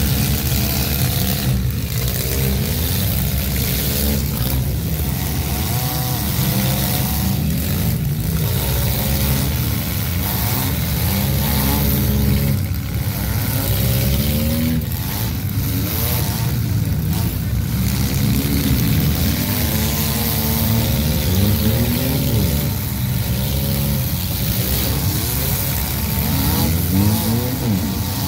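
Demolition derby car's engine revving up and down again and again, heard from inside the car's cab.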